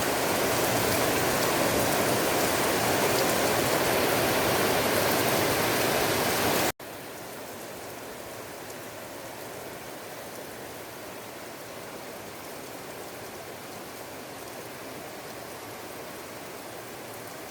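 Steady rainfall, an even hiss of falling rain. About seven seconds in it cuts off abruptly and continues noticeably quieter.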